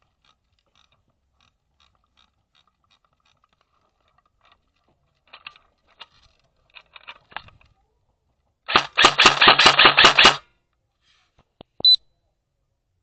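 Airsoft replica firing a rapid full-auto burst of about a second and a half, the loudest sound. It is preceded by a few scattered lighter clicks and followed by one short sharp click.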